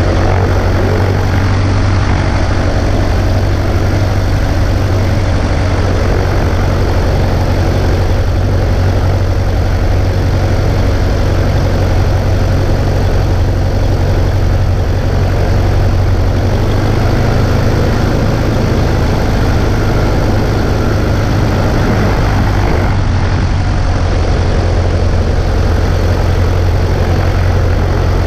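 Cessna 140A's piston engine and propeller droning steadily in flight, heard from inside the cabin, with a strong low hum and no change in pitch.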